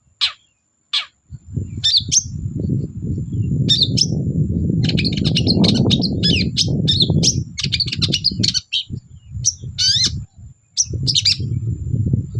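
Long-tailed shrike (cendet) singing: a few sharp, falling notes at first, then from about a second and a half in a fast, busy run of chirps and varied notes, over a rough low rumbling noise.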